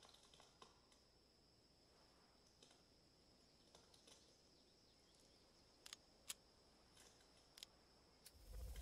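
Near silence: a thin steady high-pitched tone under a few faint, scattered clicks, with a louder low rumble building right at the end.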